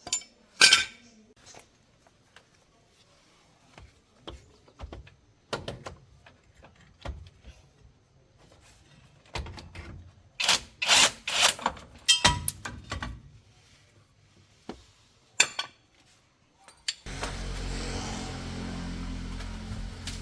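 Scattered clanks, clicks and knocks of hand tools and metal parts being handled, loudest in a cluster about halfway through. Near the end a steady low drone starts and holds.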